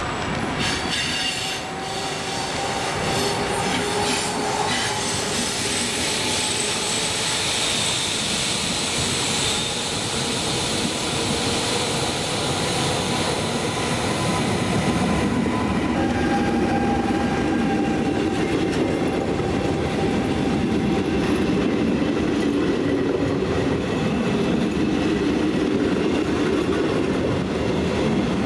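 Trenitalia E.464 electric locomotive and its regional coaches pulling along the platform, wheels squealing with a high hiss. From about halfway, the passing coaches' rolling rumble and wheel clatter take over.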